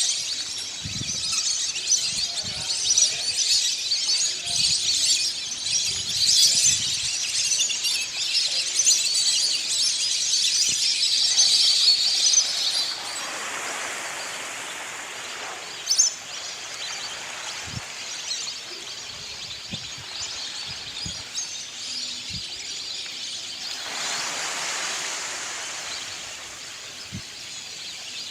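A large flock of migratory birds calling all at once in a dense, high chattering chorus, loudest for about the first half, then thinning to a softer background with one sharp click midway.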